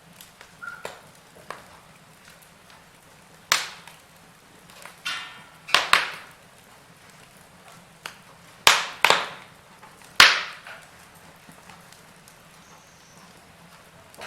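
Wood fire crackling in a fireplace: irregular sharp pops and snaps, about half a dozen loud ones bunched in the middle, over a faint steady low hiss.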